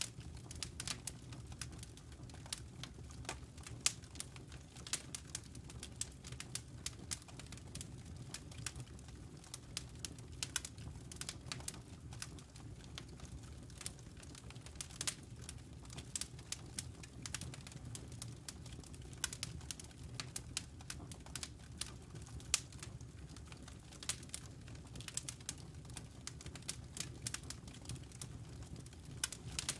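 Campfire embers and burning wood crackling: sharp irregular pops and ticks, several a second, over a low steady rumble of the fire.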